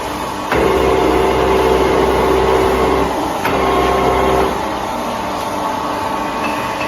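Milling machine motor running with a steady hum. A heavier, lower motor drone joins about half a second in, breaks off briefly around the three-second mark, and stops about four and a half seconds in, as the worktable is raised toward the cutter.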